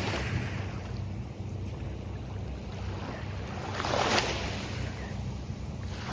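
Gulf of Mexico surf breaking and washing onto the beach, one wave crashing loudest about four seconds in and another building near the end, over a steady low rumble of wind on the microphone.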